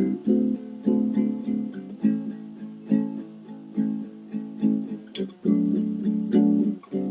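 Background music: a strummed acoustic guitar playing a slow chord pattern, about one strum a second, with no singing.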